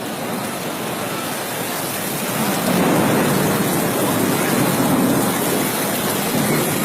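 Heavy rain pouring down, a steady hiss that grows louder about two and a half seconds in.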